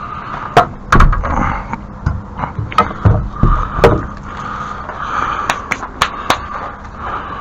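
A series of irregular knocks and clunks, some heavy and thudding, with scraping between them, like materials or tools being handled during work.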